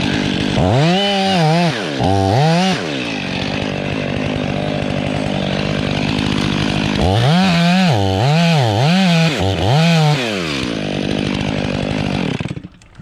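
Two-stroke petrol chainsaw running at idle and revved up and down in two spells of repeated throttle blips, then cut off shortly before the end.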